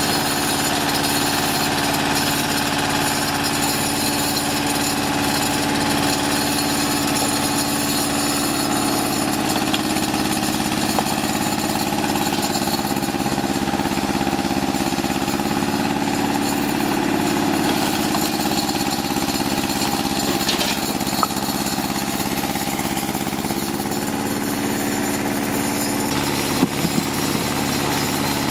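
An engine running steadily with a constant hum, its pitch shifting slightly once or twice. Near the end there are a few short, sharp knocks.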